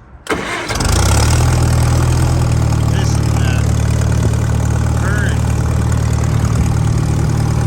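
Gas engine of a three-wheel Farmall tractor catching in the first second, then idling steadily.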